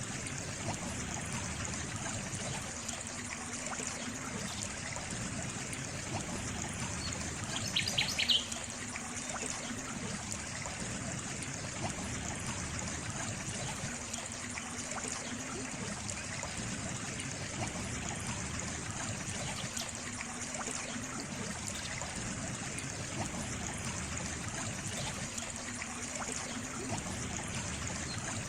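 Water trickling steadily, like a small stream. A bird chirps briefly about eight seconds in.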